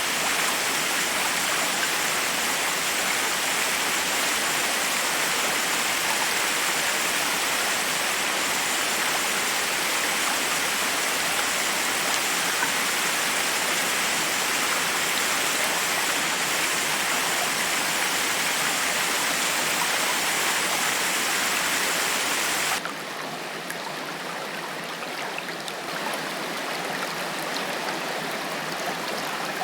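Forest waterfall: a steady rush of water falling over rocks. About 23 seconds in the sound cuts abruptly to a quieter, duller rush of water, which swells a little a few seconds later.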